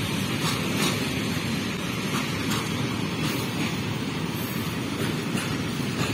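Freight train of open gondola wagons rolling past: a steady rumble of wheels on the rails, with occasional faint clicks.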